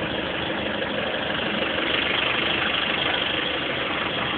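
A vehicle's engine running with road noise, heard from inside the cab while driving; steady, swelling a little around the middle.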